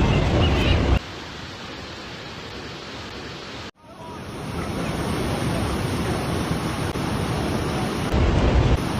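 Steady rush of fast-moving floodwater, with wind buffeting the microphone in a heavy low rumble during the first second and again near the end. The sound drops out abruptly for a moment a little under four seconds in, then resumes as a steady rush.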